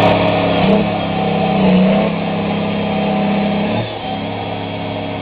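Tractor engine running hard under load as it strains to free the stuck machine. The engine note dips briefly about four seconds in, then settles at a steady pitch.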